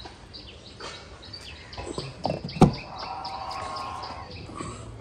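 Small birds chirp repeatedly in the background. A little past halfway there is a single sharp click, the loudest sound, followed by a steady, even-pitched electric whine that lasts under two seconds.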